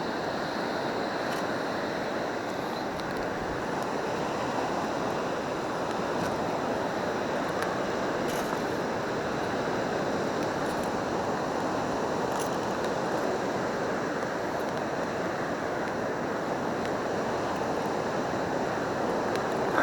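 Steady wash of breaking surf and moving seawater, with a few faint clicks.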